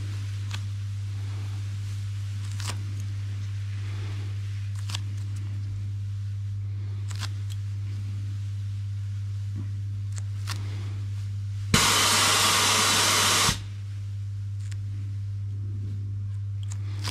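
Steady low hum with faint scattered clicks. About twelve seconds in, a loud hissing burst lasts a little under two seconds and cuts off suddenly.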